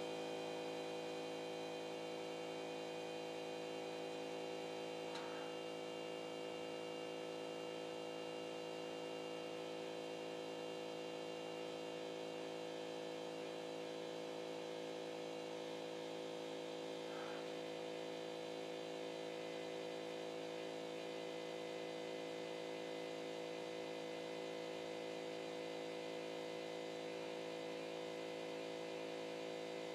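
A CNC pen-drawing machine's motors humming steadily, a constant hum made of many fixed tones. Two faint brief sounds come through, one about five seconds in and one about seventeen seconds in.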